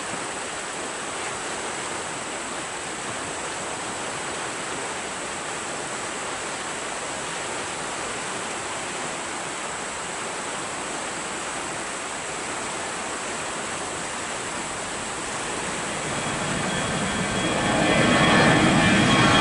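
A steady rushing noise, then an airliner's engines growing louder over the last few seconds as it approaches, with a high whine coming in near the end.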